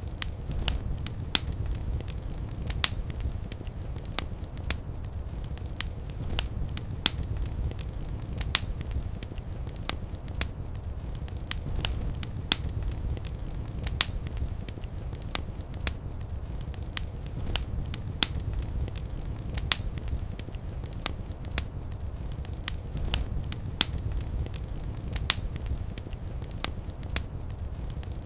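Wood fire burning in a fireplace: a steady low rumble of flames with sharp, irregular crackles and pops several times a second.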